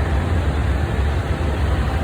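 Moving passenger train heard from inside the coach: a steady low rumble with an even rushing noise over it.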